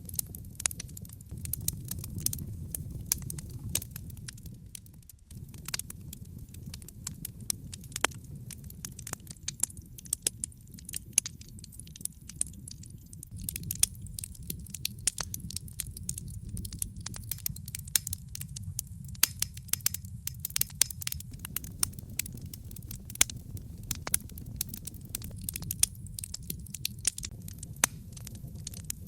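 Log fire burning in a fireplace, crackling with frequent irregular sharp pops and snaps over a steady low rumble of the flames. The rumble dips briefly about five seconds in.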